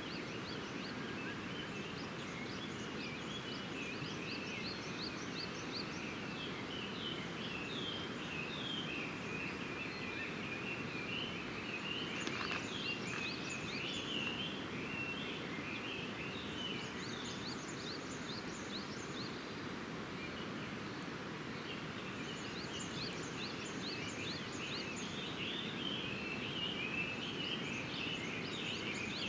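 Small birds calling in quick repeated series of chirps, bout after bout, over a steady low rushing background noise, with one sharp click about twelve seconds in.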